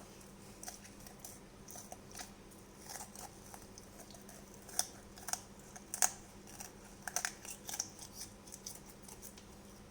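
Kitchen scissors cutting through a raw whole chicken along its backbone: irregular crisp snips and crunches through bone, the loudest about five and six seconds in.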